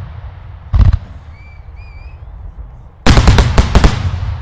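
Daylight fireworks exploding: one sharp bang a little under a second in, then a rapid volley of six or seven loud bangs about three seconds in, each echoing away.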